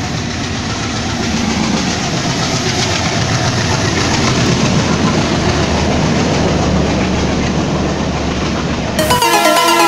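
Diesel-hauled express train of LHB coaches passing at speed: a steady rush of wheel and rail noise that grows slightly louder as the coaches go by. Electronic music cuts in about nine seconds in.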